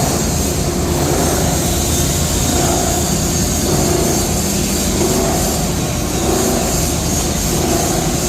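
A scrap plastic washing line for PP raffia and LDPE running: a steady, loud industrial machinery din with a deep rumble.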